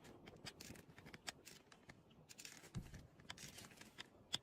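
Faint scattered clicks and rustling, with a low thump about three seconds in and a sharp click near the end.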